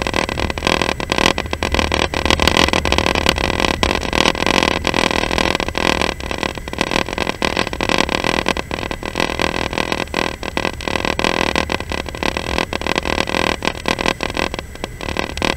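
Moving train: a steady low rumble of the running gear with fast, irregular rattling and clatter.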